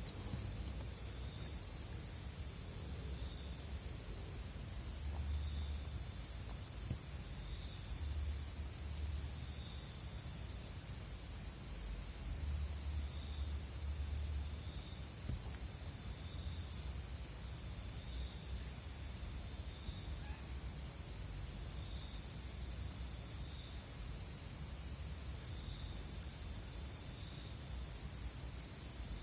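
Night insects, crickets, trilling steadily in a high continuous chorus, with other shorter chirps repeating over it and the trill pulsing faster near the end. A low rumble comes and goes underneath.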